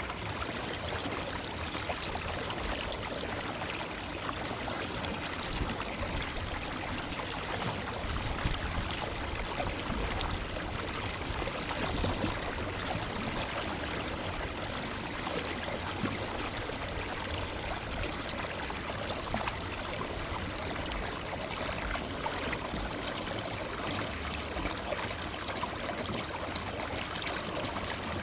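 Forest river flowing and babbling over rocks: a steady rush of water with small splashes and gurgles.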